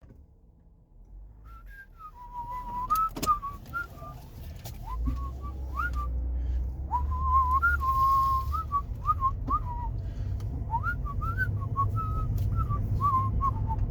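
A man whistling a tune, a single clear pitch that glides and steps between notes, starting about a second and a half in. A low rumble runs underneath from about five seconds in.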